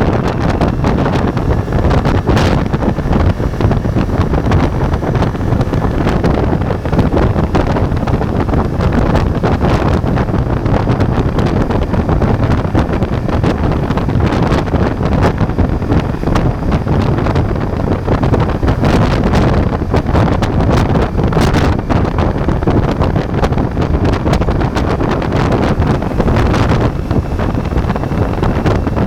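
Ducati Multistrada V4's V4 engine running while the bike is ridden, largely buried under steady wind buffeting on the microphone.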